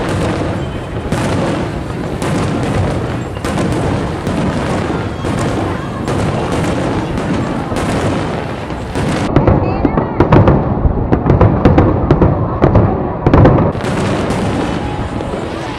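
Aerial fireworks bursting in rapid succession, a dense run of bangs and crackles. The heaviest booms come from about nine to thirteen and a half seconds in.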